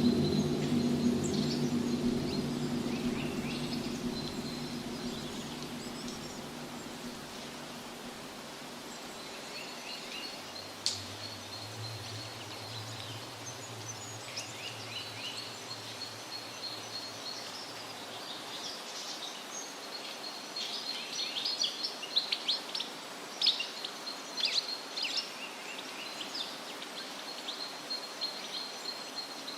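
Birds singing and chirping in woodland, with a steady background hush; the calls grow busier and more clustered about two-thirds of the way through. A low droning rumble is loudest at the start and fades away over the first several seconds.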